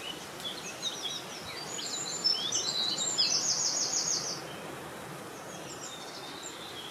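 Small songbirds singing high, twittering phrases over a steady hiss of wind. One bird's song grows louder about two seconds in and ends in a rapid trill, followed by fainter calls.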